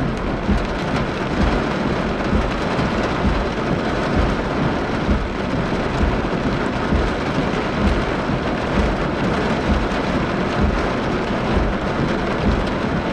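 Heavy rain beating on a car's windshield and roof, heard from inside the car: a dense, steady hiss with a low rumble underneath.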